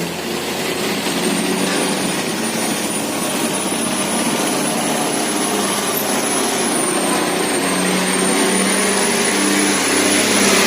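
Diesel engine of a large cargo barge of several hundred tons running steadily as it passes, growing slowly louder, with a thin high whine above the engine hum.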